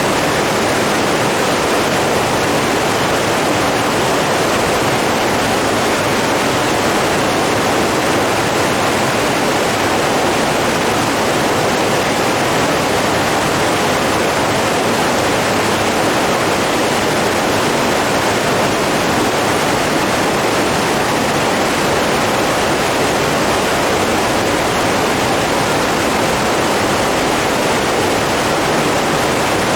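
Steady, unbroken rush of flowing water, as from a fast stream or small waterfall, with an even loudness throughout.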